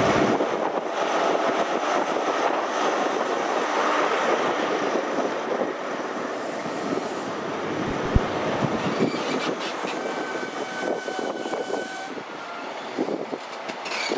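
A GWR Class 43 HST train running past along the platform: the power car's diesel engine close by at first, then the coaches rolling past with a dense rumbling rush that eases slightly. From about nine seconds in, thin high-pitched squeals from the running gear come and go.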